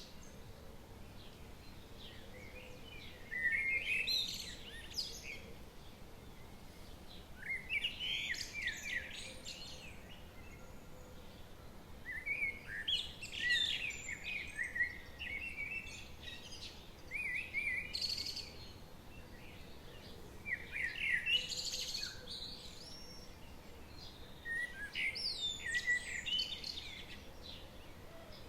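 A songbird singing short phrases of quick rising and falling notes, one every three to five seconds, over a faint steady background hiss.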